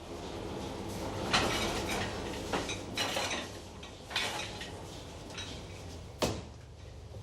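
Kitchen clatter: dishes and utensils knocking and clinking a handful of times, with short scraping sounds in between.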